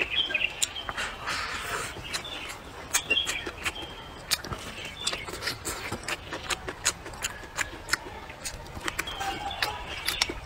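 A person chewing a mouthful of food close to the microphone: rapid wet clicks and lip smacks, several a second.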